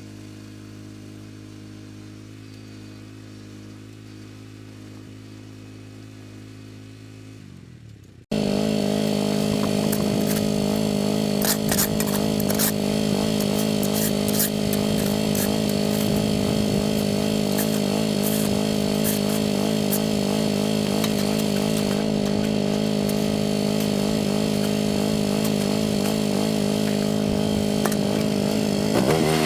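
A small engine running steadily at low volume, then after an abrupt cut about eight seconds in, a much louder engine running steadily with many sharp ticks over it.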